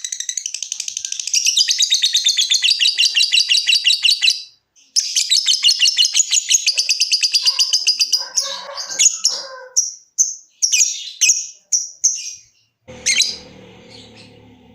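Lovebird giving its long, rapid chattering trill (ngekek), a fast run of high notes at about ten a second that pauses briefly and then breaks into separate chirps. Near the end there is a sharp click, then a faint low hum under the last chirps.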